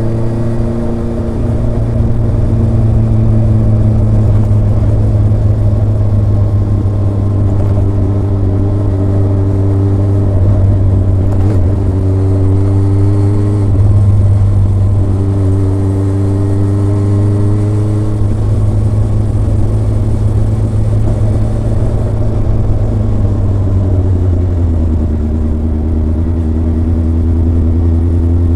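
Kawasaki ZRX inline-four engine and exhaust under way on the road, a steady low drone with higher engine tones that rise a little and break off several times as the bike pulls through the gears.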